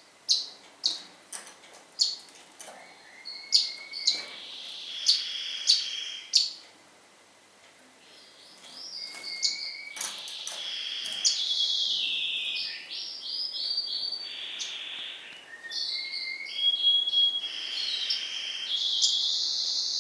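Pet songbird singing: a run of sharp, separate chirps for the first few seconds, then after a short pause long warbling phrases full of rapid trills and sweeping notes.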